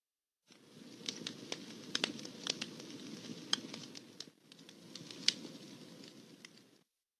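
Campfire crackling: a low, soft rush of burning with irregular sharp pops, stopping briefly about four seconds in and then going on until it cuts off.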